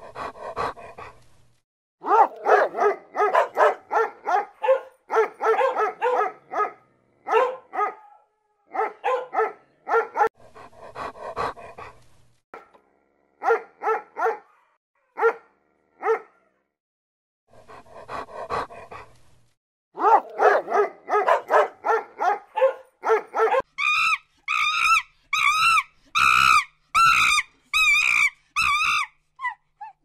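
A corgi barking rapidly, several barks a second in runs broken by short pauses. Near the end it changes to a higher-pitched series of wavering yips.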